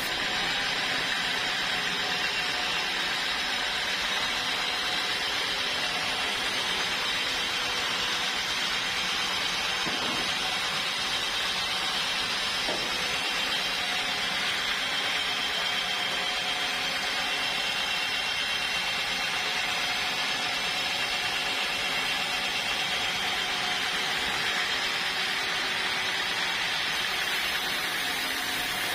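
Sawmill saw machinery running steadily, a continuous even noise with no breaks.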